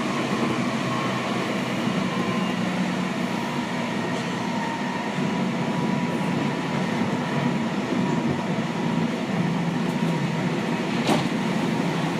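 Running noise of a Seibu 6000 series electric train with a Hitachi GTO VVVF inverter, heard inside the car: a steady rumble of wheels and motors with a faint held tone from the traction equipment. A single sharp click comes near the end.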